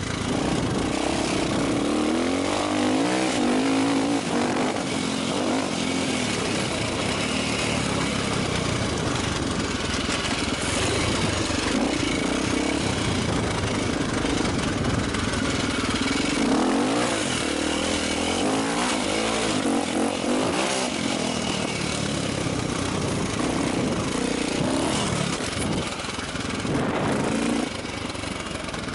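A 450 cc enduro motorcycle's engine running under way off-road, its pitch rising and falling over and over as the throttle is opened and closed, heard from the rider's helmet.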